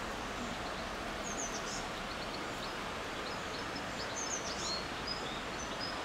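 Small birds chirping in short, high calls every second or so over a steady outdoor background hiss.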